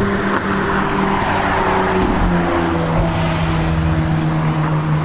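McLaren 570GT's twin-turbo V8 running on the move, with road and wind noise. Its steady note steps up in pitch about two seconds in.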